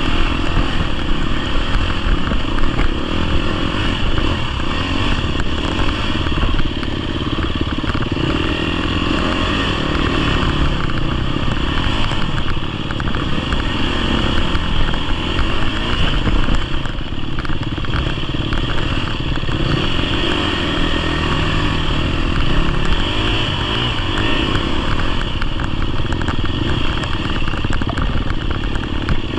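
Dirt bike engine running steadily as the bike is ridden over rough ground. This is plausibly the GasGas EX250F's 250cc four-stroke engine, with rattling from the bike throughout.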